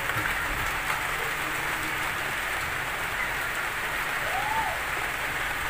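Steady rain falling, an even hiss, with a faint low rumble underneath.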